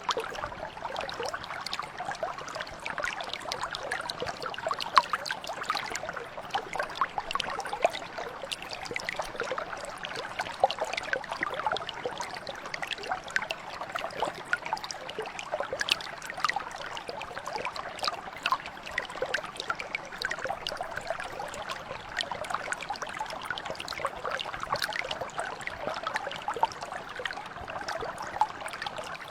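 A small mountain brook flowing steadily, with a dense run of small splashes and gurgles over the continuous water noise.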